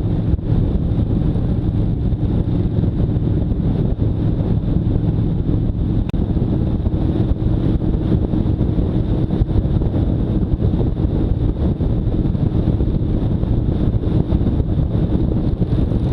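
Motorcycle running at steady speed with heavy wind buffeting on the microphone.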